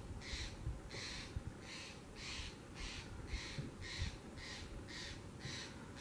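A bird gives a long, even series of short, harsh calls, about two a second.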